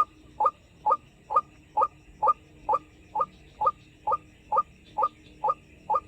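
White-breasted waterhen calling: a short, hollow note repeated very evenly, about two times a second.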